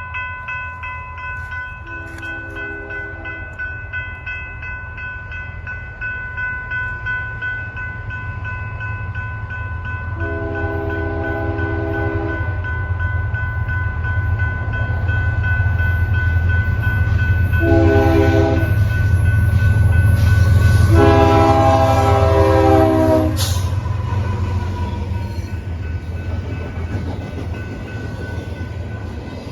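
BNSF freight locomotives sounding the grade-crossing horn signal, two long, a short and a long blast, over the engines' rumble, which grows loud as the lead locomotives pass and then fades as the cars roll by. A steady ringing of the crossing bells sits under the horn through the first half, and there is a sharp click as the locomotives pass.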